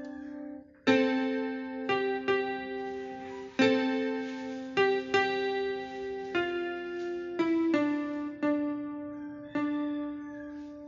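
Slow, gentle background music on a piano-like keyboard. Single notes and chords are struck about once a second and left to ring out, with a brief pause just under a second in.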